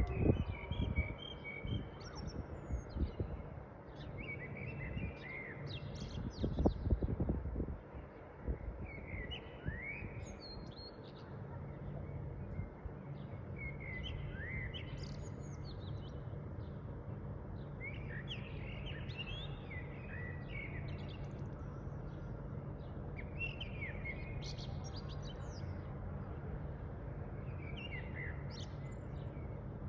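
Small birds chirping and calling on and off, with short, mostly falling chirps overlapping throughout. Low thumps and rumbling in the first several seconds give way to a steady low hum.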